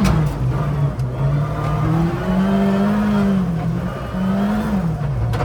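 Ford Fiesta ST rally car's engine revving hard, its pitch climbing and falling away several times as the driver lifts or changes gear.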